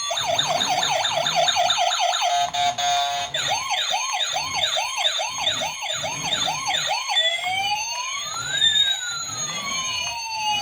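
Toy police car's electronic siren sound effect switching patterns: a fast yelp of quick up-and-down sweeps, a brief stepped tone pattern, then a slower yelp from about three seconds in, and a slow rising and falling wail for the last few seconds.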